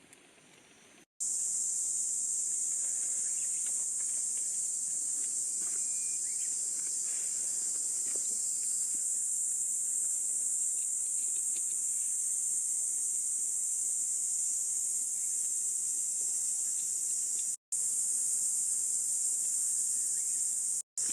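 Insect chorus: a steady, high-pitched shrill drone that comes in about a second in. Faint scattered ticks and small knocks sit underneath, and there are two very brief breaks near the end.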